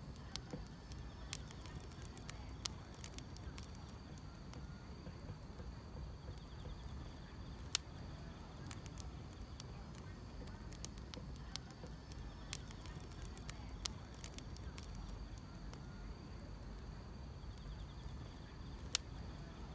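Wood fire crackling, with irregular sharp pops over a low steady rumble of the flames, and grass insects chirring steadily in the background.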